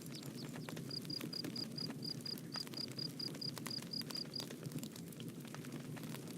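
Bonfire burning with a steady low rush and frequent sharp crackles. About a second in, a high chirping call repeats about four times a second at one pitch, and it stops after about three and a half seconds.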